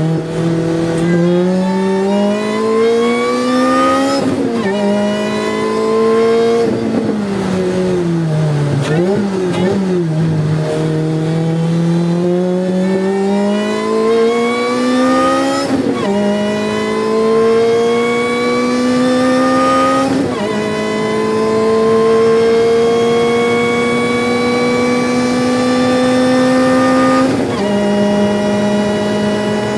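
Car engine at racing speed, accelerating hard through the gears. Its pitch climbs in long pulls and drops sharply at each upshift, about four times. Around a third of the way in it falls and wavers as the driver brakes and downshifts.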